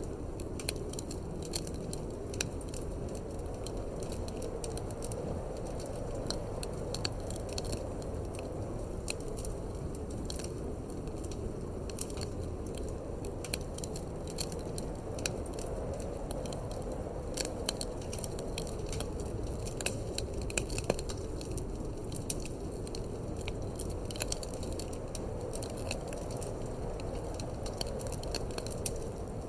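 Wood fire in a fireplace crackling, with frequent irregular sharp pops and snaps, over a steady low rush of wind.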